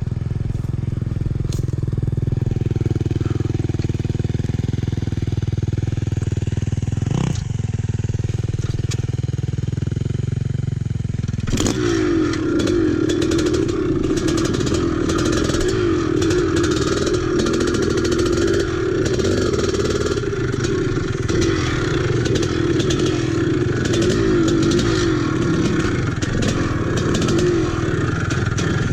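Vintage dirt bike engine running while being ridden: a steady low drone for about the first eleven seconds, then abruptly louder and busier, with frequent clicks and knocks over the engine.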